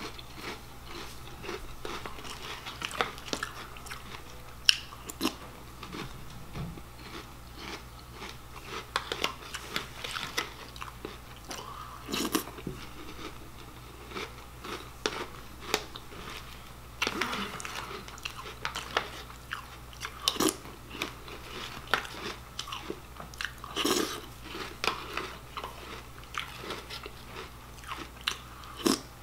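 Close-up chewing and crunching of Cinnamon Toast Crunch cereal: irregular crisp crunches, with louder runs of crunching every few seconds as each spoonful is bitten.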